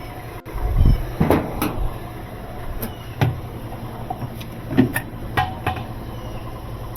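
A few separate knocks and clunks of washer parts being handled and fitted during reassembly, over a steady low hum.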